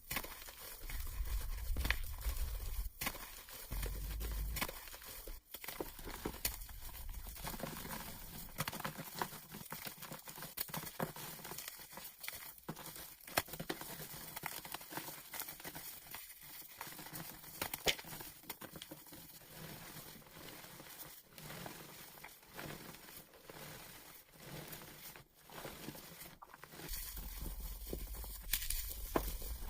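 Blocks of gym chalk being crushed and crumbled, a dense run of crunching and crackling with powdery patter, played back at double speed.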